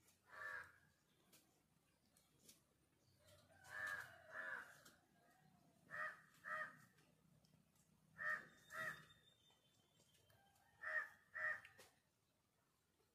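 A bird calling: one short call, then four pairs of short calls about half a second apart, each pair two to three seconds after the last.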